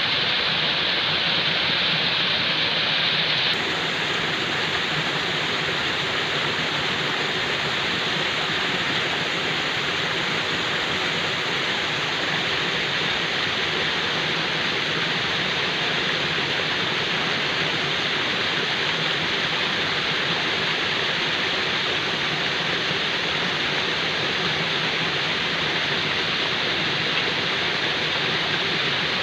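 Falling water: a steady, even rush of water noise with no breaks. Its tone shifts slightly, a little less hiss, about three and a half seconds in.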